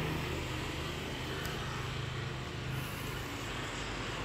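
Kia Forte's engine idling steadily: an even low hum under a constant hiss.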